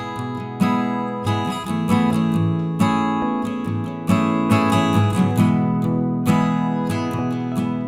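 Background music: acoustic guitar strumming chords, with a strum every half second or so.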